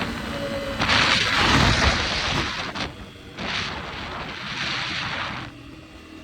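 Wind buffeting the microphone in two loud gusts while riding, drowning out the running engine of a dirt bike.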